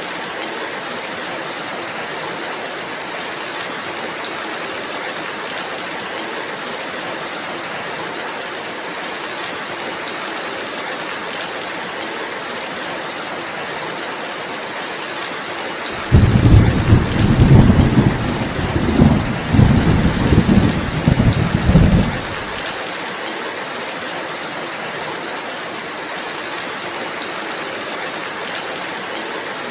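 Steady rainfall hissing throughout. About halfway through, a loud roll of thunder breaks in suddenly, rumbles low and uneven for about six seconds, then dies away back into the rain.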